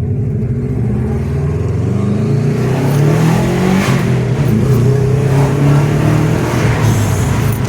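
Turbocharged Subaru flat-four engine accelerating hard, its pitch climbing, dropping at a gear change about four seconds in, then climbing again, over a steady hiss of tyres on the wet road.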